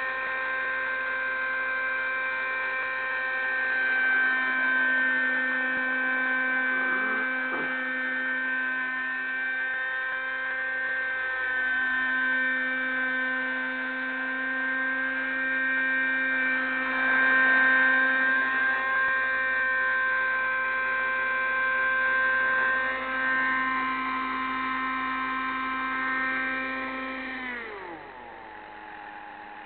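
Raptor 30 model helicopter's small nitro glow engine running at a steady high-pitched whine, its pitch wavering slightly, then dropping sharply near the end as it winds down.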